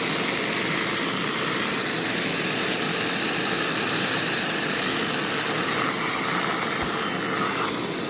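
Hoover SteamVac SpinScrub carpet cleaner running, its motor making a steady, even drone.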